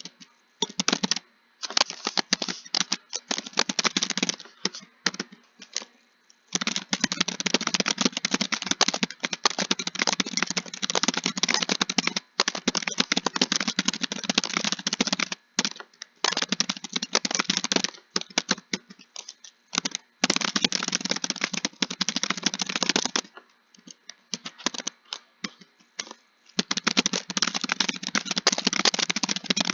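Computer keyboard being typed on steadily: fast, dense runs of keystrokes broken by short pauses, the longest about a third of the way in and again near the end.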